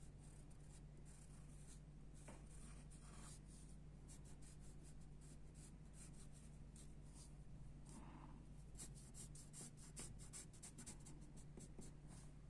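Pencil sketching on paper: faint, short scratching strokes that come quicker and closer together in the second half, over a steady low hum.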